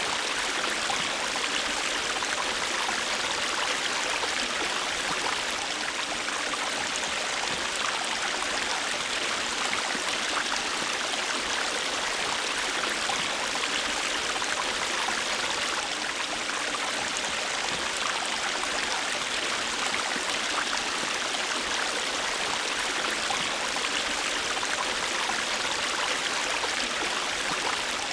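A river flowing, its water rushing evenly and without a break.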